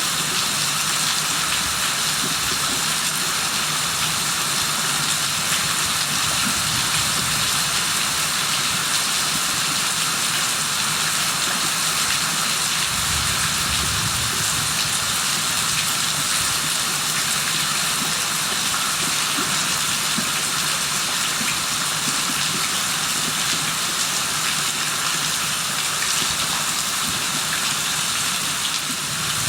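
Steady heavy rain falling, an even hiss, with a brief low rumble about halfway through.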